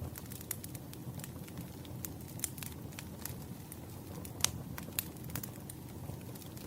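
Wood fire crackling, with irregular sharp pops and snaps over a steady low rumble; the loudest pop comes about four and a half seconds in.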